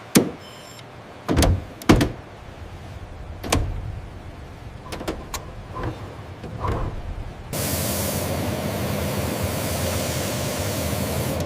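Several sharp knocks or clanks, four strong ones in the first few seconds, then lighter ticks. About seven and a half seconds in, a steady loud rushing noise starts.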